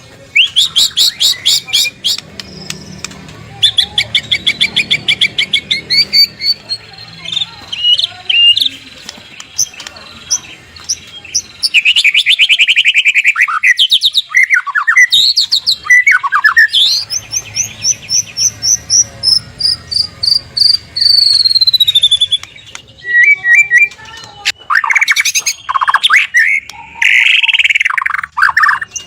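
White-rumped shama (murai batu) singing loudly and continuously: a varied song of rapid trills, sharp whistled phrases and mimicked calls, including a long run of quick notes that rises and then slowly falls in pitch.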